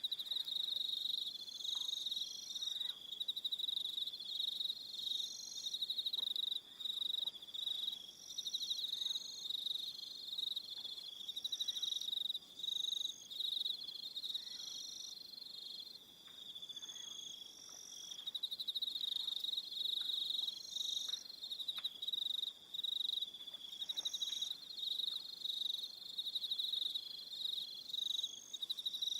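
Crickets chirping at dusk: several callers at once, their high trills coming in overlapping bursts of about a second that start and stop throughout.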